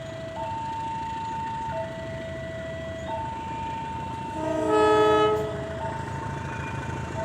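Level-crossing warning alarm sounding, a steady tone switching between a higher and a lower pitch every second or so, over a low rumble. About four and a half seconds in, a passenger train's horn gives one loud chord-like blast lasting just over a second.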